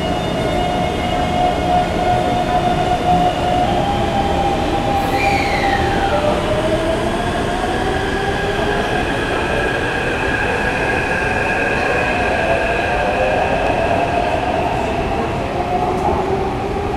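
Taipei Metro C371 train running, with steady wheel-and-rail noise and motor whine. One whining tone drops sharply in pitch about five seconds in, and other tones shift later as the speed changes.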